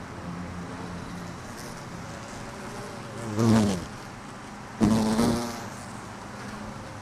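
Honeybees buzzing around an open hive, with two louder buzzes about half a second each from bees flying close past the microphone, the second starting suddenly about five seconds in.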